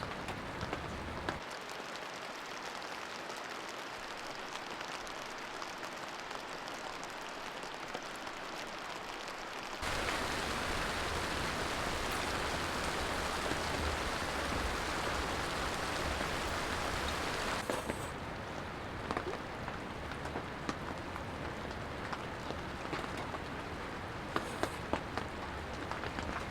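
Steady rain falling, with single drops tapping now and then. It changes abruptly a few times, and is louder and fuller for several seconds in the middle.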